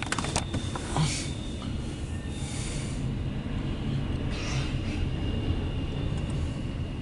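CSX intermodal freight train rolling past: a steady low rumble of wheels on rail, with soft hissing swells and a thin steady high tone. A few sharp clicks come right at the start.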